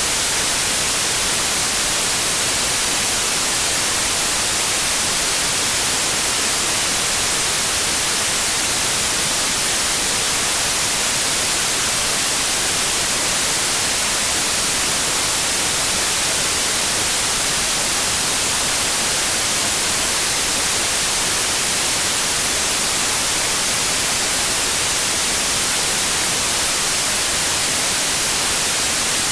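Steady, loud white noise: an even hiss weighted toward the high end, with no change in level or pitch.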